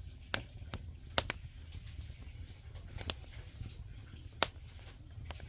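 Firewood burning in a traditional Korean agungi firebox, crackling with about seven sharp, irregularly spaced pops over a steady low rumble.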